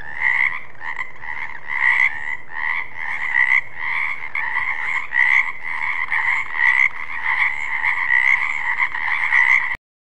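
Frogs calling in a continuous, pulsing chorus, with louder calls standing out every half second or so. It cuts off suddenly near the end.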